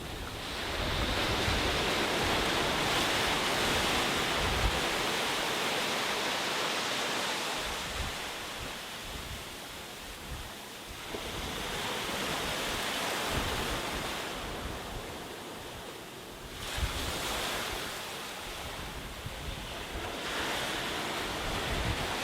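Sea waves breaking and washing onto a beach, the surf swelling and fading in surges every several seconds. Wind buffets the microphone with low rumbles.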